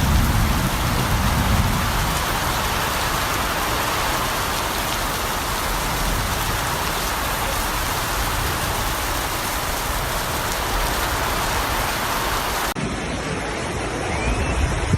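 Heavy rain falling, a steady even rush, with a deeper rumble in the first couple of seconds. The sound changes abruptly near the end to a thinner rain sound.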